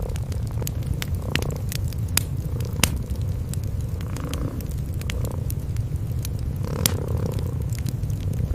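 Cats purring, a steady low throb, over a wood fire crackling with irregular sharp pops, the loudest a little before 3 seconds in and near 7 seconds.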